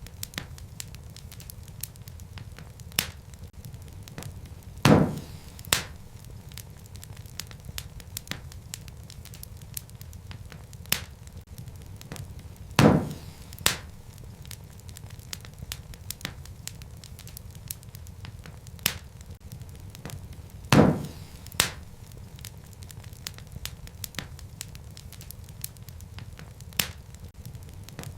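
Wood fire burning in a fireplace: a steady low rumble with constant small crackles of burning logs. Three louder pops come about eight seconds apart.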